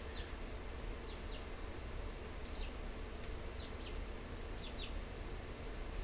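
Steady low hum with faint, short high chirps from birds, often in pairs, about once a second.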